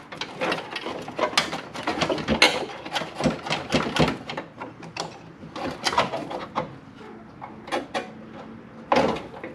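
Irregular clicks, scrapes and clatter of hand tools and metal parts being worked loose.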